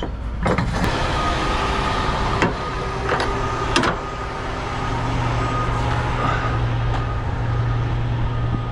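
Diesel semi-truck engine running with a steady low hum that grows stronger about five seconds in. A few sharp clicks or knocks come in the first four seconds.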